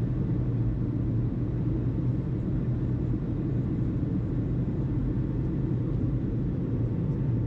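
A steady low rumble with a constant low hum running under it.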